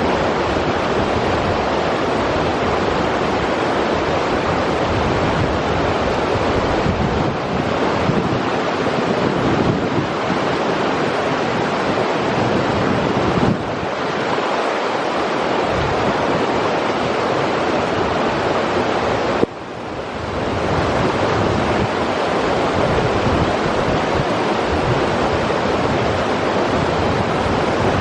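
River water rushing steadily over rocks, a constant dense hiss. The level dips sharply for a moment about two-thirds of the way through, then comes back.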